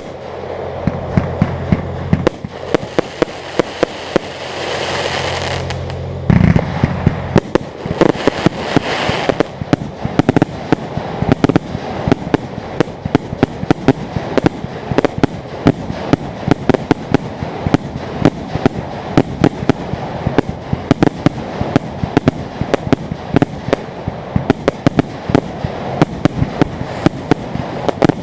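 Fireworks display: a dense, continuous run of bangs and crackling shells. A steady low hum sits under it for the first six or seven seconds, and a hiss swells and fades twice in that stretch.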